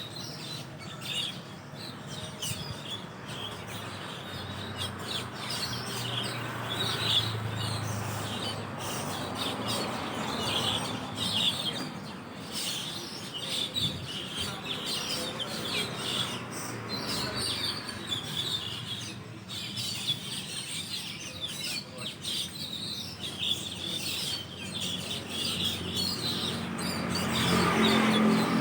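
A flock of Asian glossy starlings (perling) chattering in a roost tree: many short, high chirps and squeaks overlapping without pause. A low hum swells near the end.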